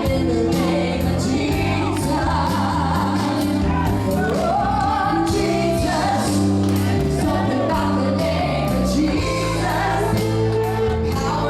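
Gospel worship music: several voices singing over a band, with steady bass notes and a regular drum beat.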